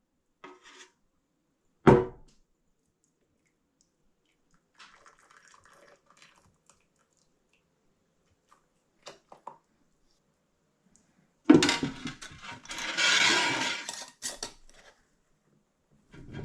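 Canning glassware and pots being handled: a sharp knock about two seconds in, light clinks of glass and metal, then a few seconds of louder clattering mixed with a rushing, pouring-like noise near the end.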